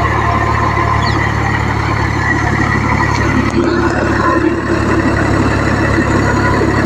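Tractor engine running with a steady low drone.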